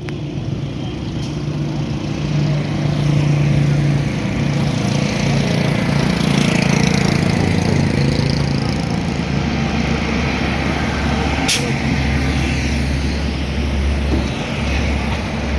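Heavy road traffic, with truck and bus engines running and passing one after another. A short, sharp hiss comes about eleven and a half seconds in.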